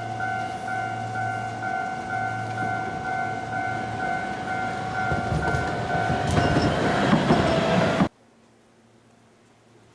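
Tram-train running on the line with a steady, pulsing electronic ringing tone. The rail noise grows louder over several seconds and then cuts off suddenly about eight seconds in.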